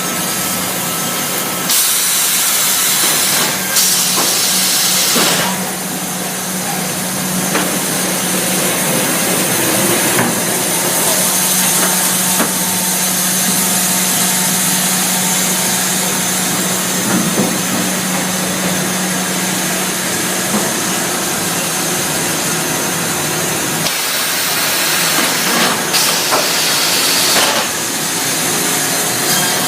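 Baker band sawmill and edger machinery running: a continuous loud mechanical noise with a steady hum through much of it. Sharper hissing noise rises about two seconds in and again near the end.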